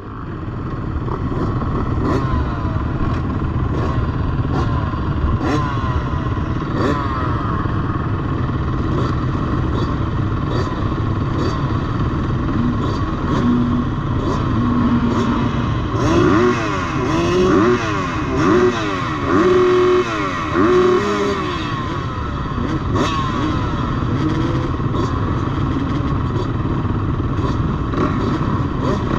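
Several MX2 motocross bikes racing, their engines revving and shifting together. About halfway through, one bike comes close and revs up and down about five times, louder than the rest.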